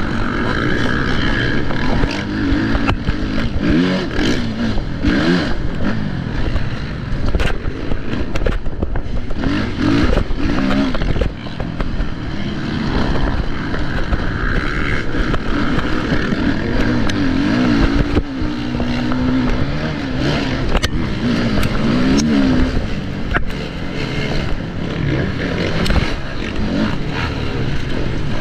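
Motocross bike engine revving up and down, its pitch rising and falling again and again as the rider works the throttle through the gears. Heavy low rumble runs underneath, with a few sharp knocks.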